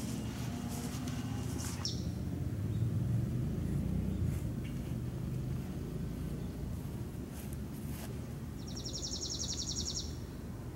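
A songbird gives a short, fast, even trill near the end, over a steady low rumble of outdoor background noise; a brief falling chirp is heard about two seconds in.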